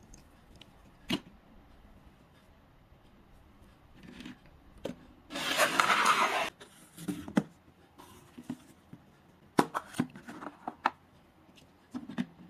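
Hand-handling noises: a few sharp clicks and taps, and in the middle a scraping, rasping rustle lasting just over a second, the loudest sound here. Then a quick cluster of clicks near the end.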